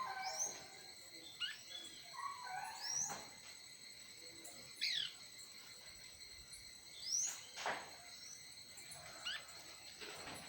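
Small songbirds calling outdoors: short whistled chirps that sweep up and down in pitch, coming every second or two. Under them runs a steady, high insect drone.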